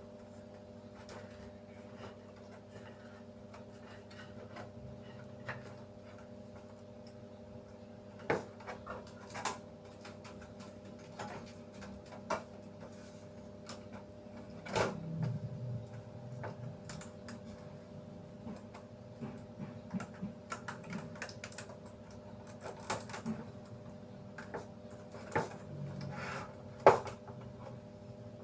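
Scattered light clicks and knocks of small hard objects being handled, with a few sharper knocks, over a steady low hum.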